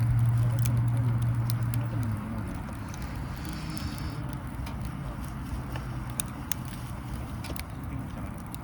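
Wood fire crackling in a small charcoal grill, with scattered sharp pops. A steady low hum runs underneath for about the first two seconds, then stops, and faint distant voices are heard.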